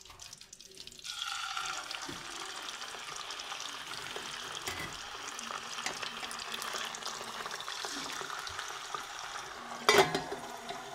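Raw chicken pieces go into hot oil in a wok, and a steady frying sizzle sets in about a second in and holds. Near the end a metal lid is set on the wok with a sharp clank, the loudest sound.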